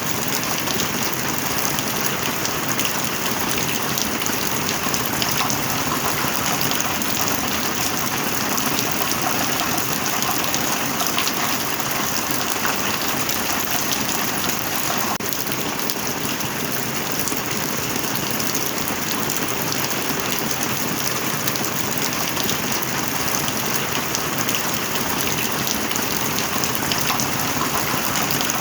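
Steady rain falling: a dense, even hiss made up of countless drop ticks.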